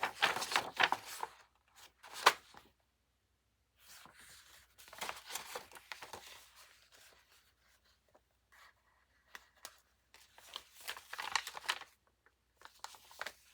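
Paper and card pages of a handmade junk journal rustling as they are turned and handled, in several bursts with short pauses, with one sharp tap about two seconds in.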